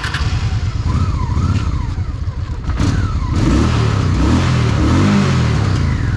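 Honda Shadow VT750's V-twin engine under way. It runs steadily at first, then about three seconds in it is opened up, its pitch climbing and dropping several times as it accelerates, with rising wind rush.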